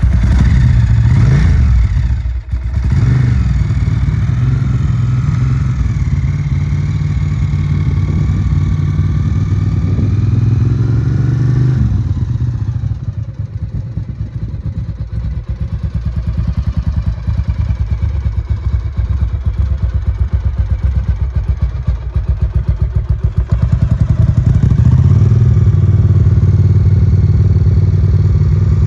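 1992 Ducati 750SS's air-cooled 90-degree V-twin just fired on a cold start and running at a fast idle. The pitch wavers for the first twelve seconds or so, then drops to a lower, quieter idle and climbs again about twenty-four seconds in.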